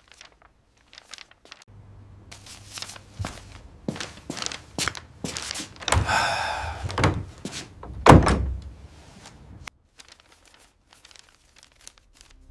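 A run of knocks and thuds, with a longer pitched sound about six seconds in and the loudest thud just after eight seconds; the sounds thin out to scattered clicks near the end.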